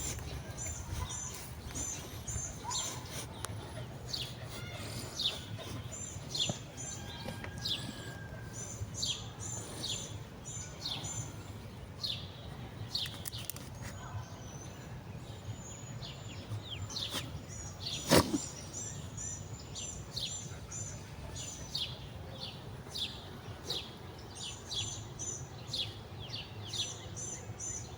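Several birds chirping: many short, quick calls that slide downward, mixed with repeated pairs of thin high notes, over a steady low background hum. A single sharp click sounds once about two-thirds of the way through.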